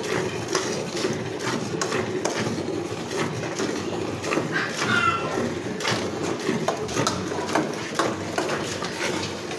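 Irregular knocks and clinks, as of a metal milk pail being handled, with a short animal call about five seconds in.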